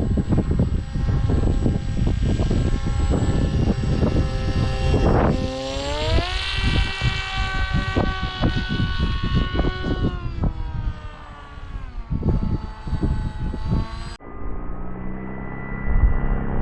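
Electric motor and propeller of a foam combat flying wing whining, rising in pitch about five seconds in and falling again about ten seconds in as the throttle changes, with wind buffeting the microphone. Near the end the sound turns suddenly duller.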